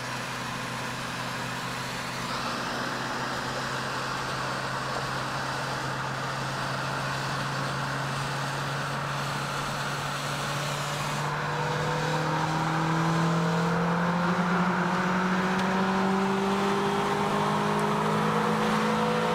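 Toyota Celica's 1ZZ-FE four-cylinder engine heard from inside the cabin at motorway speed, over a steady hiss of tyres on wet road. About halfway through the engine note starts to climb and grows louder as the car accelerates.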